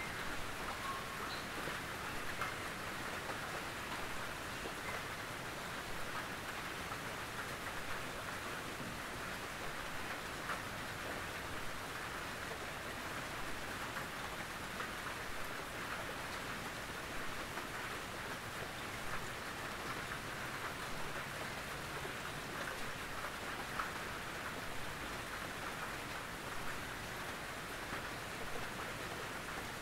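Gentle rain falling on a tin roof: a steady, even patter with faint individual drop ticks scattered through it.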